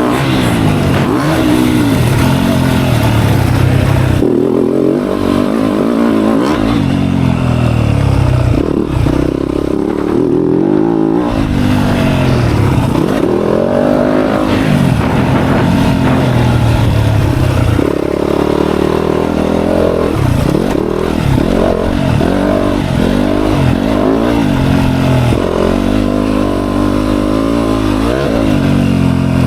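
Dirt bike engine revving up and dropping back over and over as it is ridden, its pitch rising and falling again and again.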